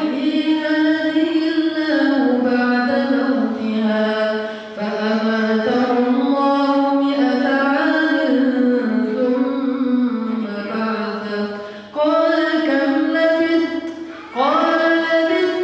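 A man reciting the Quran in a soft, melodic style, drawing out long held notes that glide between pitches. He pauses briefly for breath about five seconds in, again near twelve seconds, and once more shortly before the end.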